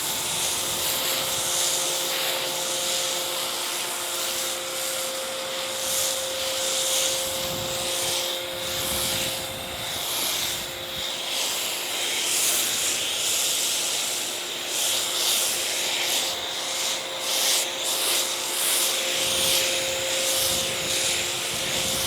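Pressure washer foam cannon spraying car wash soap onto a car: a continuous hiss of spray that swells and dips, over a steady whine from the washer's motor and pump.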